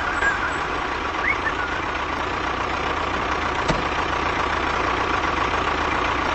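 A vehicle engine running steadily, with a couple of short chirps about a second in.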